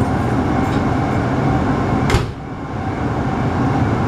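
Inside the cabin of a standing electric local train: its onboard equipment gives a steady hum and rumble. About two seconds in comes one sharp clack, after which the noise dips briefly and then builds back up.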